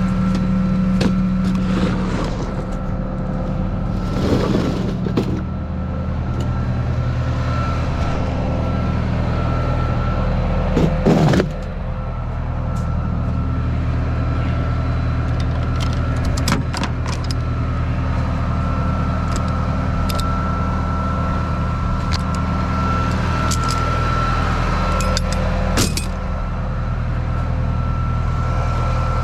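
Tow truck engine running steadily, with a few short knocks and rattles; the loudest is about eleven seconds in.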